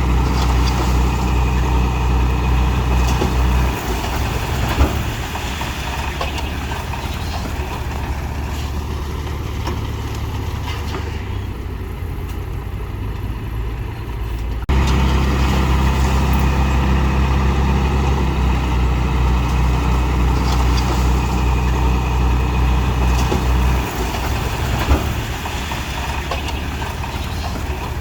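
Diesel engine of heavy earthmoving machinery running with a steady low drone. It drops in level about four seconds in, jumps back up abruptly about halfway, and drops again near the end, with a single sharp click shortly after each drop.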